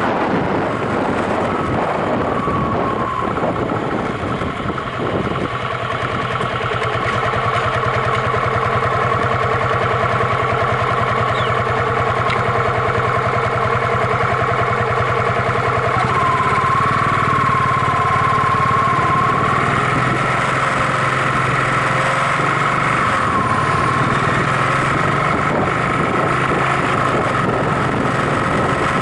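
Yamaha SRX400 single-cylinder engine running steadily, its pitch shifting a few seconds in and again about halfway through.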